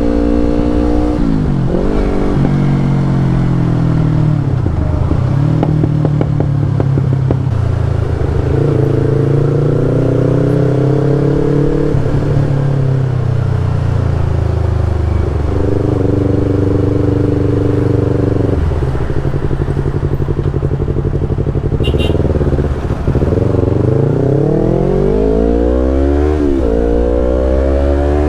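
Yamaha R25's parallel-twin engine through an aftermarket Brave exhaust, running under throttle. Its pitch climbs, holds and drops several times, and falls steeply a few times as the revs come down. Near the end it climbs steadily again.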